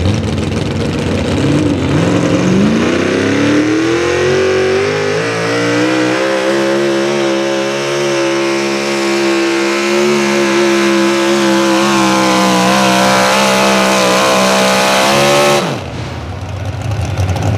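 Naturally aspirated 650-cubic-inch engine of a modified 4x4 pulling truck at full throttle during a sled pull: revs climb over the first few seconds, hold high and fairly steady as the truck drags the sled, then fall away suddenly about sixteen seconds in as the throttle is let off at the end of the pull.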